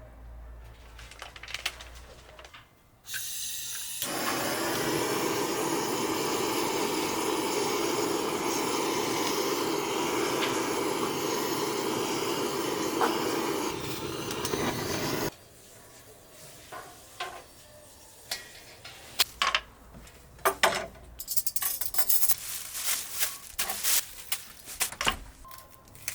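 Water running hard from a tap for about twelve seconds, starting and stopping abruptly. After it come scattered clinks and knocks of dishes being handled.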